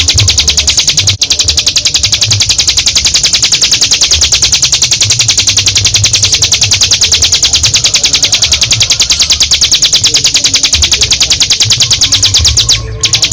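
Ciblek gunung (a prinia) singing a long, loud 'ngebren' trill: a very fast run of high notes that goes on almost without a break, pausing briefly about a second in.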